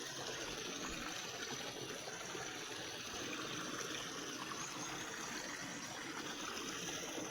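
Stream water running and trickling steadily over rock into small natural pools along a waterfall.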